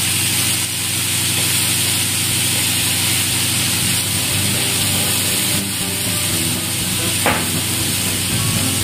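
Cut beans, onion and tomato sizzling in oil in a frying pan, under steady background music. A single short tap comes about seven seconds in.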